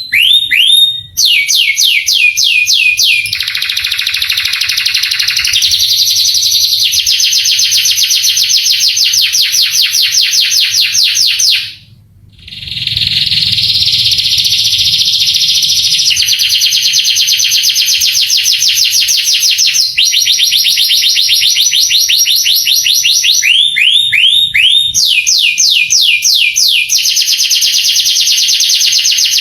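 Male canary singing a long, loud song of fast trills: phrase after phrase of rapidly repeated high notes, each phrase changing to a new note type every couple of seconds, with a brief break about twelve seconds in.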